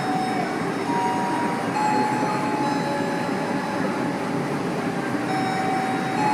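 Train moving through a station: a steady rumble of wheels and cars, with thin high tones coming and going over it.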